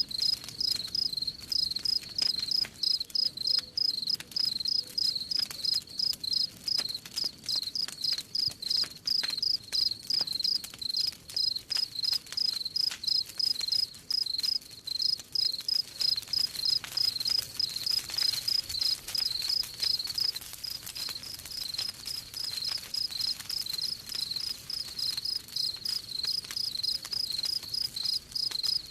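A cricket chirping steadily in a regular rhythm, about three high-pitched chirps a second, over the scattered snaps and crackles of a wood campfire.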